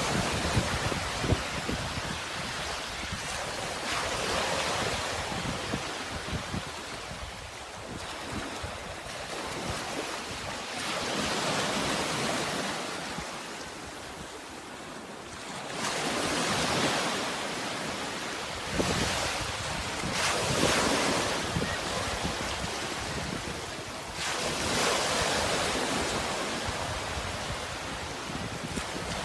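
Sea waves breaking and washing up the shore, the surf swelling and falling away every few seconds, with wind rumbling on the microphone.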